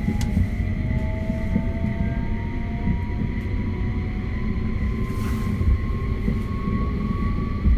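Running sound of a JR West 271 series EMU: a steady rumble of wheels on rail under the whine of the traction motors and their Hitachi SiC VVVF inverter. The whine rises slowly in pitch as the train gathers speed.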